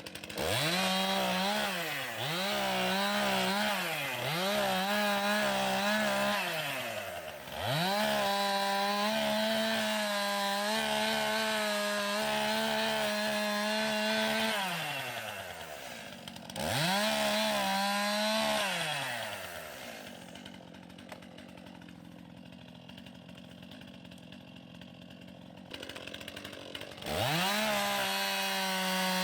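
Stihl two-stroke chainsaw revving to full throttle several times. It holds high revs for several seconds, drops back to a quieter idle for several seconds, then revs up again near the end.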